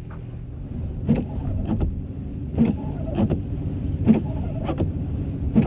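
Car cabin noise while driving in the snow: a steady low rumble with a regular pair of short knocks repeating about every second and a half.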